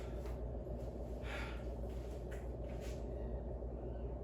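A man breathing hard after exercise, with a few short audible breaths, over a steady low hum in the room.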